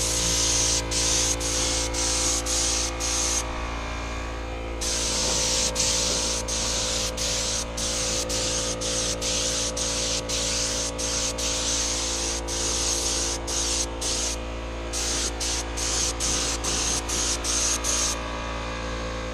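Air spray gun hissing as it sprays clear coat, in many short bursts and a few longer runs as the trigger is pulled and released, stopping shortly before the end. Under it a steady machine hum runs throughout.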